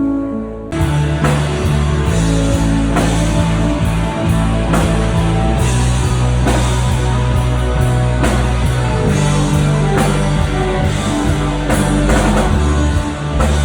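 A rock band playing live through a PA system. A soft, held chord opens, then the full band of drums, bass and guitars comes in together less than a second in, with a steady beat.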